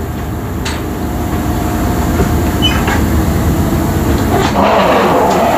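Passenger train pulling away, heard from inside the coach: a steady low rumble of running gear and engine, with a louder rush of noise swelling near the end.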